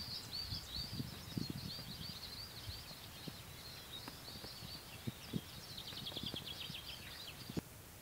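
Small birds calling over and over with short high chirps, one breaking into a quick trill about six seconds in, over scattered soft footsteps.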